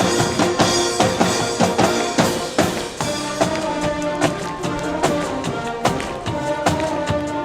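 Brass band music: sustained brass chords over a steady beat of snare and bass drums.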